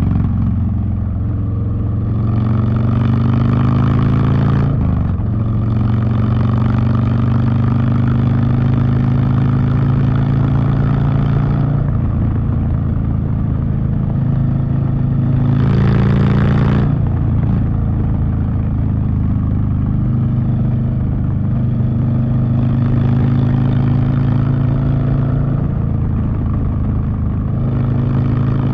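Harley-Davidson Street Bob's V-twin engine running through a Two Brothers Racing 2-into-1 exhaust while riding. It pulls up in revs and shifts up about five seconds in, then settles, easing off and picking up again several times. A brief rush of noise comes about sixteen seconds in.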